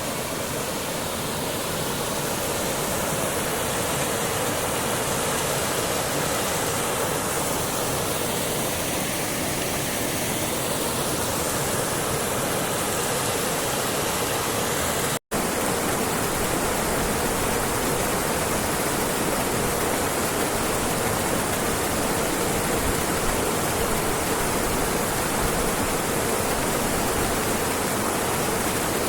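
Steady rush of river water pouring over a waterfall. It cuts out for an instant about halfway through.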